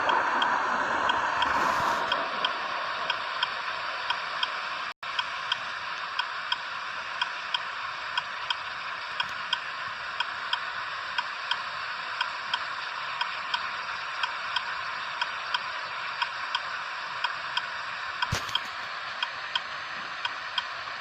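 Steady, even ticking, about three ticks every two seconds, over a continuous hiss. The sound drops out for an instant about five seconds in, and there is a sharper click near the end.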